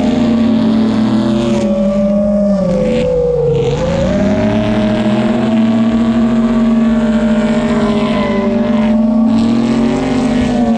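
FPV quadcopter's brushless motors and tri-blade propellers whining steadily, several close pitches at once, the pitch dipping and climbing back with the throttle about four seconds in and again near the end.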